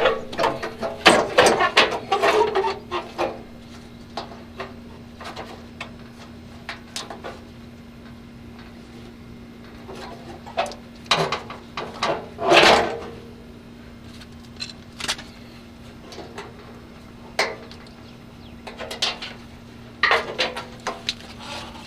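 Intermittent clunks, knocks and rattles of a car's steel front fender being worked loose and lifted off, coming in clusters with quiet gaps between. A steady low hum runs underneath.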